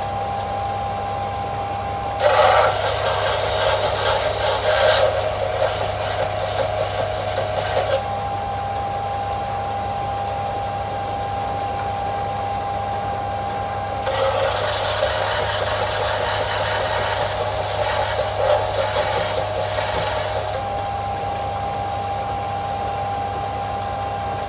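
Bench belt-and-disc sander running with a steady hum. Twice, for about six seconds each time, a steel blade is pressed against the abrasive with a loud grinding rasp, sanding it to a smooth finish.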